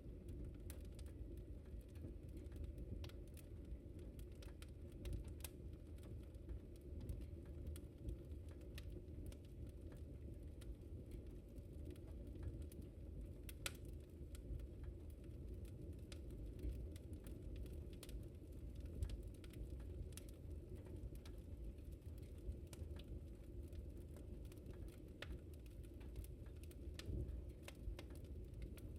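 Wood fire in a fireplace crackling: irregular sharp pops and snaps over a low, steady rumble of the flames, with a few louder pops.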